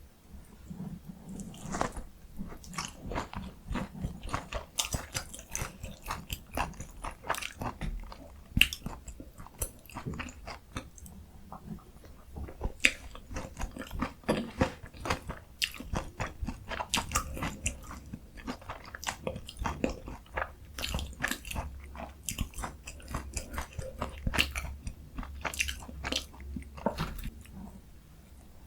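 Close-miked biting and chewing of a breaded, fried pork cutlet (donkkaseu) topped with kimchi and cheese: irregular crunches and crackles of the fried coating, several a second, with wetter chewing in between.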